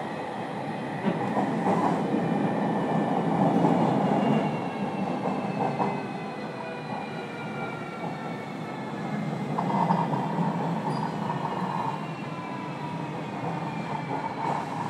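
Inside a JR Kyushu 305 series electric train slowing for a station stop: several thin motor-inverter tones fall slowly in pitch under braking, over the rumble of wheels on rail.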